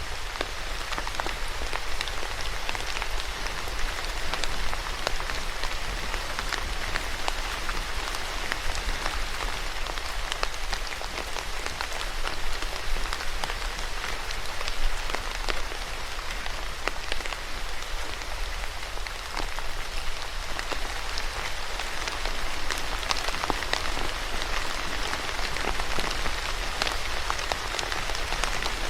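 Steady rain falling, an even hiss dotted with the sharp ticks of individual drops hitting a surface, over a low rumble.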